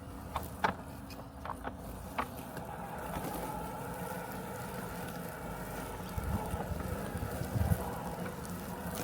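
Robotic lawn mower running with a steady mechanical hum. A few sharp clicks come in the first couple of seconds, then a higher hum grows in about three seconds in, with a few low thumps near the end.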